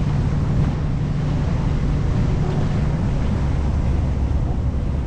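Sightseeing boat's engine running with a steady low hum that shifts lower about three seconds in, under wind buffeting the microphone and the rush of water.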